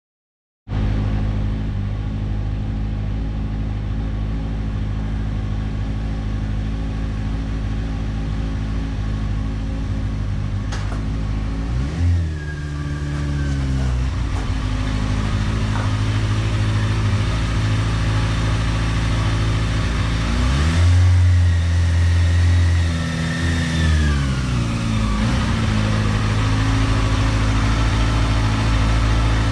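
2003 Kawasaki ZX-6RR's inline-four engine running, starting abruptly just under a second in. The engine speed rises and falls twice, about twelve seconds in and again between about 21 and 25 seconds.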